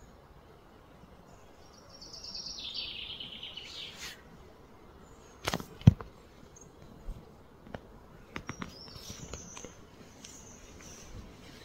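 A bird singing a rapid trill of high notes that steps down in pitch, with another short high call later. About halfway through come two sharp knocks, the second the loudest sound, then a scatter of lighter clicks.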